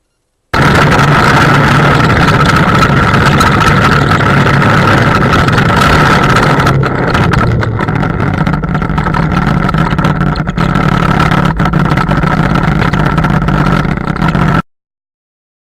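Car engine and road noise recorded by a dash camera, very loud and steady with a low hum and a constant high whine, plus scattered sharp clicks in the second half; it starts and cuts off abruptly.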